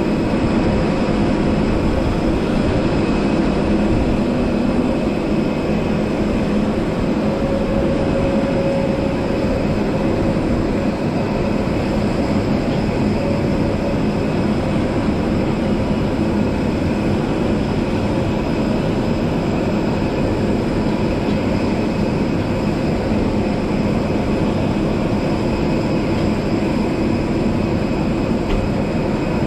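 Steady machine noise around a parked Airbus A320-200 being unloaded on the apron: an unbroken drone carrying several held whining tones, from the aircraft and its ground equipment.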